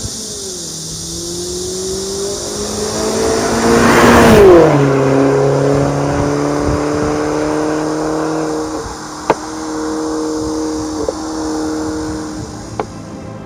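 Mercedes-Benz E250 CGI's turbocharged 1.8-litre four-cylinder (M271) engine through a valved dual-muffler cat-back exhaust and straight-through downpipe, revved up gradually to a peak and released, then settling back to a steady idle. A few sharp clicks come near the end.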